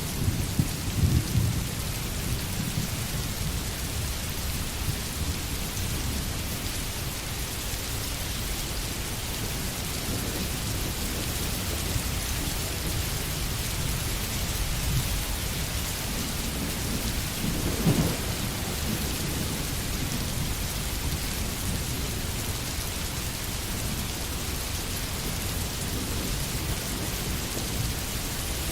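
Steady heavy rain falling in a forest, an even hiss throughout, with a low rumble in the first couple of seconds and another brief one about eighteen seconds in.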